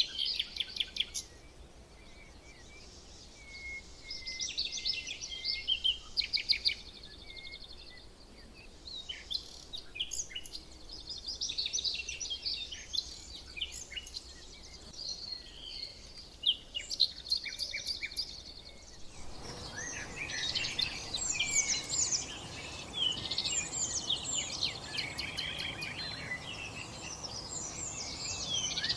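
Several small songbirds chirping and singing in quick, overlapping phrases. About two-thirds of the way through, a steady background hiss comes in and the chirping grows denser.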